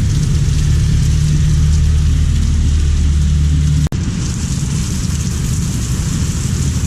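Heavy rain falling as a steady hiss, with a steady low hum under it for the first four seconds. The sound breaks off abruptly for an instant, and the rain carries on without the hum.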